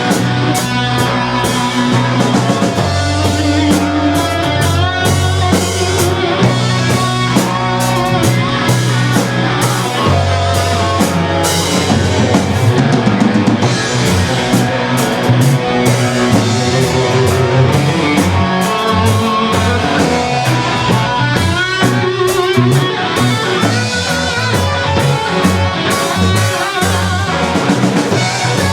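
Rock band playing an instrumental passage: electric guitar over a full drum kit, with no singing.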